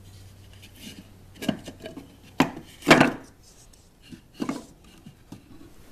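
Wooden top bars of a homemade top-bar beehive knocking and rubbing against each other and the hive body as they are handled: a few separate sharp wooden knocks, the loudest about three seconds in.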